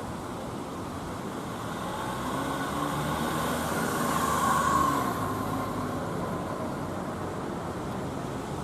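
A vehicle passing by on a city street, growing louder to a peak about halfway through and then fading away, over a steady background of traffic.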